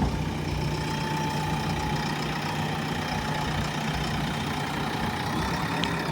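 Diesel engine of a JCB 3DX Plus backhoe loader idling steadily, a low even hum with a faint steady whine above it.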